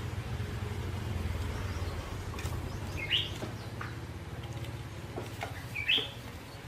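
Two short bird chirps, about three seconds apart, over a low steady rumble that fades during the first half, with a few light clicks.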